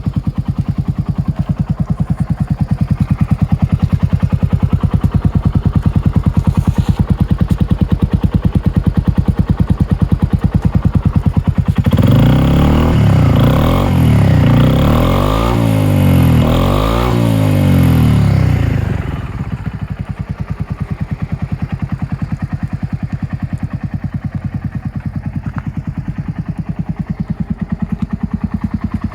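Suzuki Skywave 250 SS scooter's single-cylinder engine idling, then revved in several quick blips about twelve seconds in, each rising and falling in pitch. It then settles back to a steady idle.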